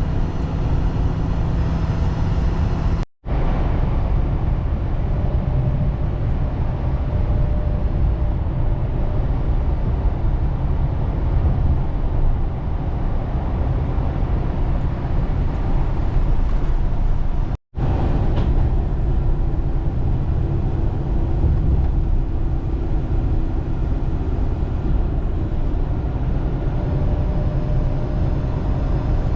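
Steady engine and road rumble inside a moving vehicle's cabin. The sound cuts out abruptly twice for a split second, about three seconds in and again past the middle.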